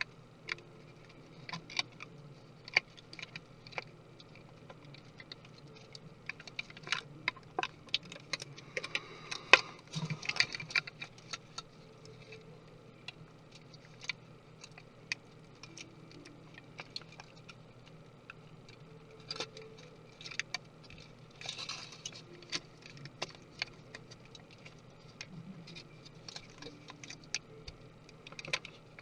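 Small tools and parts of a 2017 13-inch MacBook Pro being handled during disassembly: irregular light clicks, taps and scrapes, thickest about a third of the way in.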